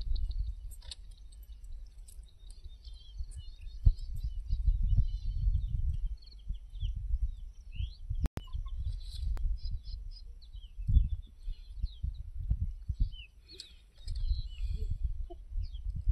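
Small birds chirping and twittering, over a low, uneven rumble.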